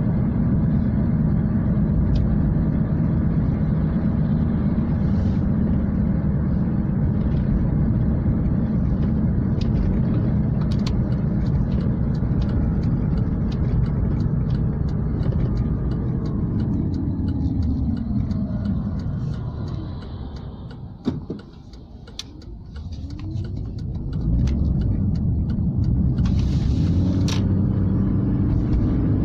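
Car driving on the road, a steady rumble of engine and tyres. About two-thirds of the way through it slows with falling pitch to a brief near-stop, gives a short click, then pulls away again with rising pitch back to cruising.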